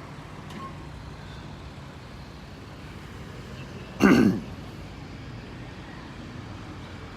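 Vehicle engines running steadily at low idle. About four seconds in comes one loud, short sound, falling in pitch and lasting under half a second.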